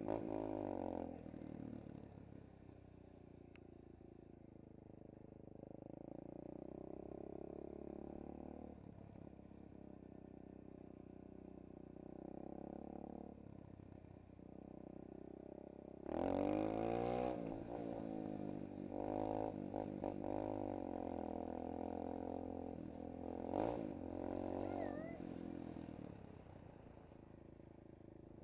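SSR 125cc pit bike's single-cylinder four-stroke engine being ridden, its pitch rising and falling with throttle and gear changes. It revs hardest in a burst a little past halfway and again with a sharp blip a few seconds later.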